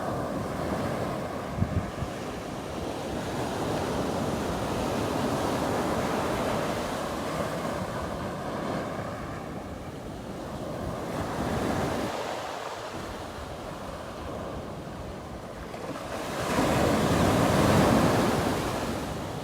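Ocean surf breaking on a sandy beach, its rush swelling and fading with each wave, the loudest break near the end; wind buffets the microphone.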